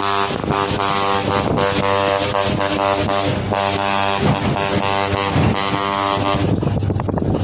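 Heavy truck's diesel engine running with a steady drone that stops about a second before the end, leaving rumbling road noise.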